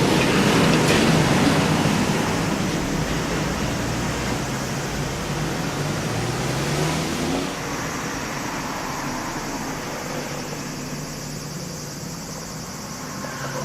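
Road traffic: a passing vehicle's engine and tyre noise, fading gradually over several seconds.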